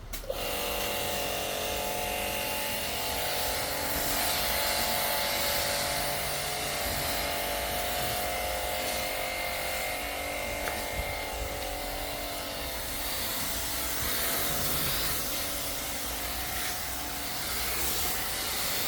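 Small electric car-wash pump switching on suddenly and running steadily with a motor whine, with a hiss of spray as it sprays shampoo foam onto the car.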